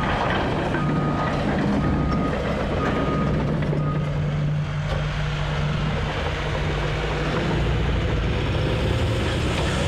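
Diesel engine of an earthmoving machine running steadily, with its backup alarm beeping about once a second until about four seconds in, showing the machine is reversing. Near the end the engine pitch slowly rises.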